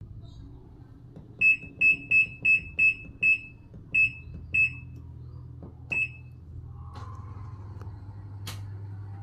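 Changhong washing machine's electronic beeper giving nine short, high single-pitch beeps at uneven intervals over about four and a half seconds, over a steady low hum. A sharp click comes near the end.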